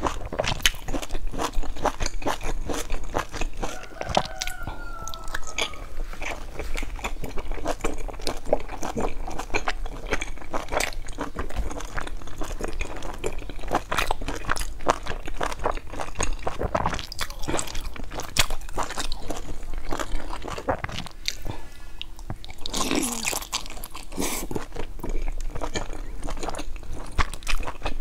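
Close-up mouth sounds of biting and chewing a pan-fried bun: dense, irregular crunching clicks from the crisp browned crust and soft filling.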